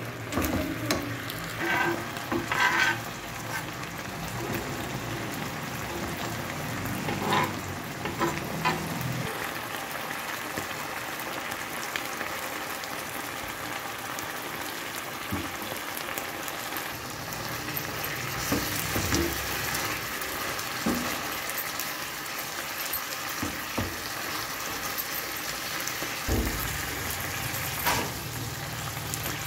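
Chicken pieces frying in a thin, bubbling sauce in a non-stick frying pan, a steady hiss. A silicone spatula stirs and scrapes against the pan in short spells, a few times through.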